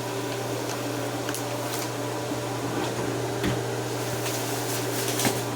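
Steady hum of a running kitchen appliance, with a few light clicks and a knock about three and a half seconds in.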